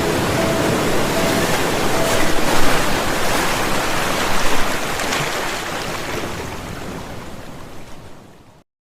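Rushing water: a steady roar that rises slightly in the middle, then fades out over the last few seconds.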